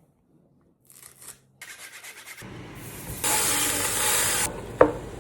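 Kitchen food-prep sounds: a quick scratchy rubbing, then a steady hiss that swells louder for over a second, ending in a sharp clink.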